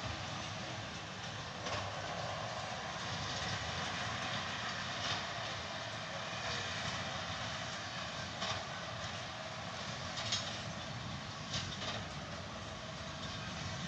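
John Deere tractor and straw baler working, a steady mechanical run with a few sharp knocks or clanks every couple of seconds.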